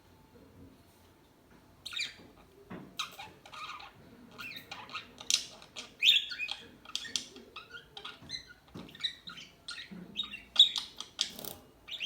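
Pet budgerigars chirping and chattering in quick, short, high calls, starting about two seconds in.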